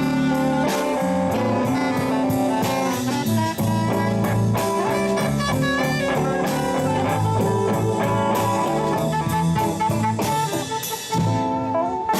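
Live blues band playing: drum kit keeping a steady beat under bass and electric guitar, with a saxophone soloing on top and holding one long note near the end.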